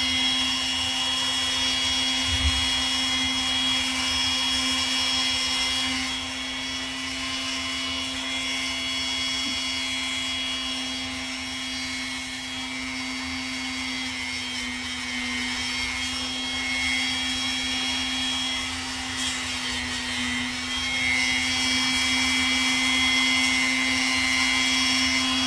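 Dremel rotary tool running steadily, its motor giving a continuous high hum while grinding down a parrot's nail. The hum is a little quieter for a stretch in the middle.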